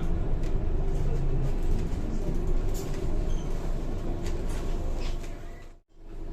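Scania K230 bus engine and ZF automatic gearbox running underway, heard from inside the bus as a steady drone with light rattles. The sound drops out briefly near the end.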